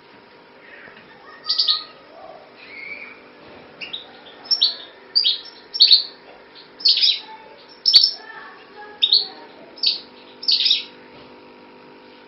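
A small bird chirping: about a dozen short, sharp, high chirps, some in quick pairs, beginning about a second and a half in. A steady low hum runs underneath.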